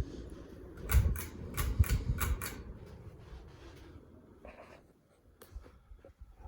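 Hunter Potomac ceiling fan running with a low whoosh that dies away over the first few seconds. About six quick, sharp clicks come between one and two and a half seconds in, and a few faint ticks follow.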